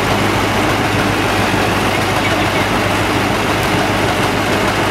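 Tractor engine running steadily at idle, with an even low hum.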